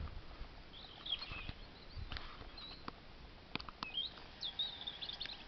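Faint songbird calls: short, high twittering phrases about a second in and again from about four seconds in, with a few sharp clicks between them.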